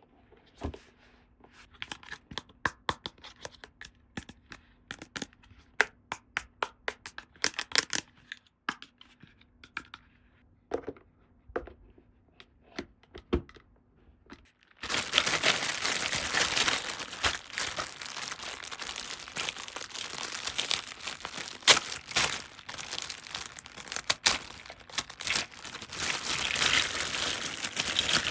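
Plastic toy packaging being handled and opened: scattered crackles and clicks at first, then from about halfway a continuous crinkling and tearing of plastic wrap.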